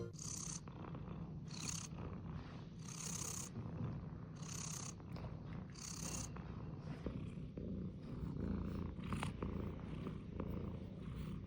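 Domestic cat purring steadily close to the microphone, a continuous low rumble with a soft breathy hiss about every second and a half over the first half.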